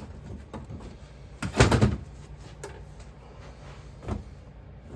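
A few hard knocks and clunks from handling, the loudest about a second and a half in and a fainter one near the end, over a low steady hum.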